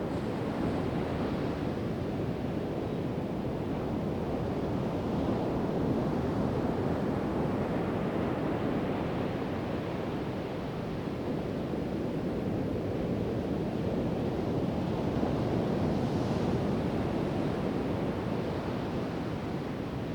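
Pacific Ocean surf breaking and washing up a sandy beach: a steady rush of waves that swells a little and eases off again every few seconds.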